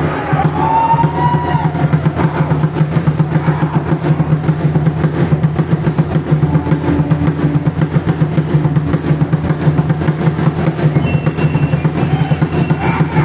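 Drums beating a fast, steady rhythm.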